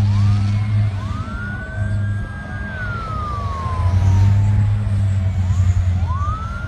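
Emergency vehicle sirens wailing in long rising and falling sweeps, over a steady low rumble.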